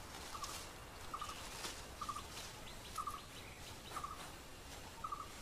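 A bird calls a short double note about once a second, steady and fairly faint, over forest background with faint high ticking.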